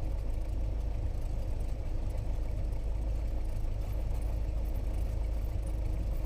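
Cessna 172S's Lycoming IO-360 four-cylinder engine running at low taxi power, a steady low drone heard from inside the cabin.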